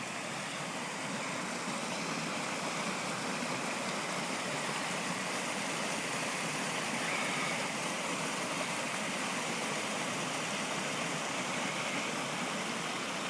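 Stream running steadily, an even rush of flowing water.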